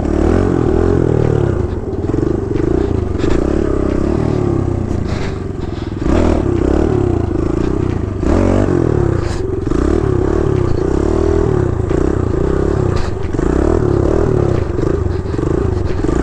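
Kawasaki KLX110 dirt bike's small single-cylinder four-stroke engine running while being ridden, its pitch rising and falling as the throttle opens and closes, with a few sharp knocks and clatters.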